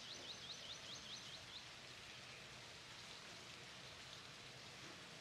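Faint outdoor background hiss; in the first second and a half a bird gives a quick run of about eight short, high, falling notes.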